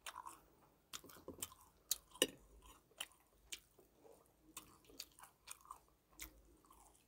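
Faint close-up chewing and crunching of fried snacks and tteokbokki, broken by irregular sharp clicks.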